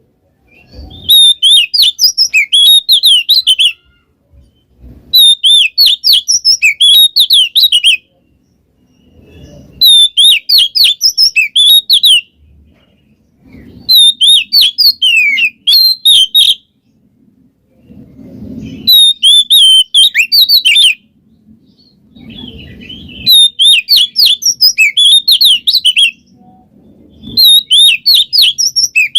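Oriental magpie-robin (kacer) singing loud, fast phrases of quick whistled and chattering notes. Each burst lasts two to three seconds, and they repeat about every four seconds with short silent gaps between.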